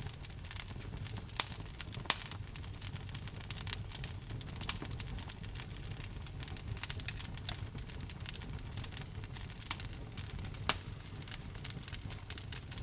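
Wood logs burning in a fireplace: irregular sharp crackles and pops, a few louder than the rest, over a low steady rumble of the fire.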